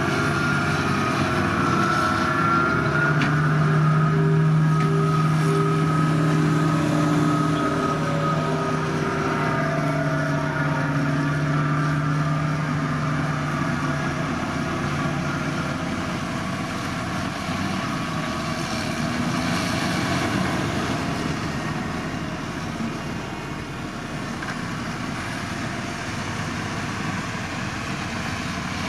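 Diesel engine of heavy earthmoving machinery running under load, a steady drone whose pitch drifts up and down, fading to a plainer rumble about halfway through.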